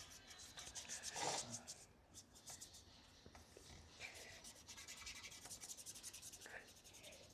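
Paintbrush bristles rubbing against a wooden birdhouse in quick, short strokes, faint and scratchy.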